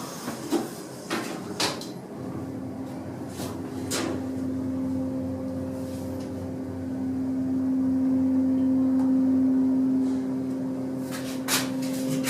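Hydraulic elevator in motion: a few clicks and knocks from the doors and car, then the steady hum of the hydraulic system about two seconds in, swelling through the middle, with more clicks near the end.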